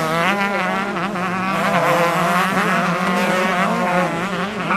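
Several motocross bikes on track at once, their engines revving up and down through the gears in overlapping buzzing whines.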